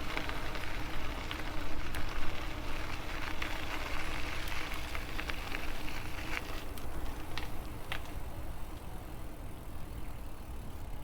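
Riding noise from an e-bike: wind on the microphone and tyres rolling on the trail, with a steady low hum. Short bird chirps come through now and then.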